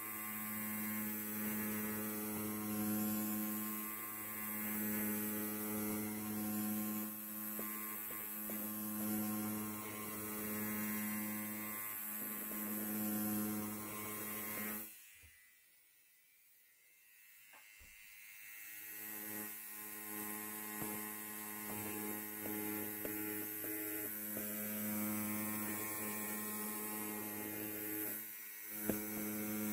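Electric hair clipper buzzing steadily with a strong low hum. About halfway through it drops almost to silence for roughly three seconds, then builds back up gradually; near the end it dips briefly and there is a single sharp click.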